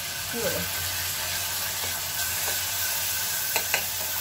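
Chopped tomato sizzling in a pot of hot oil tempering, stirred with a spoon: a steady frying hiss, with two quick clicks near the end.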